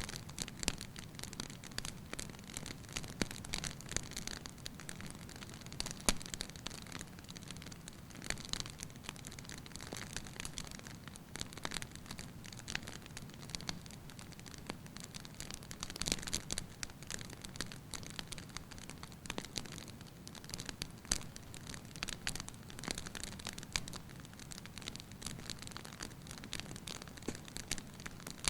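Wood fire burning in a fireplace, its logs crackling lightly with irregular small snaps and pops over a soft steady hiss.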